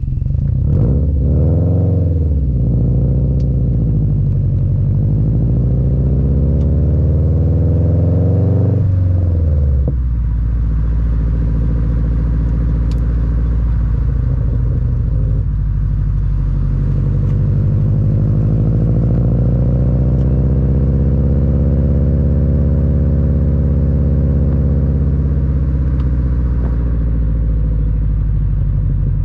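Subaru WRX's turbocharged EJ255 flat-four rumbling through an Invidia N1 cat-back dual exhaust, heard from the rear bumper while driving. The revs rise and fall, climb for several seconds and drop sharply about nine seconds in at a shift or lift-off, then rise slowly again and ease off near the end.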